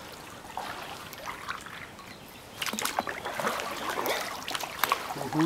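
Kayak paddles dipping and splashing in water inside a tunnel, irregular strokes that grow louder about halfway through.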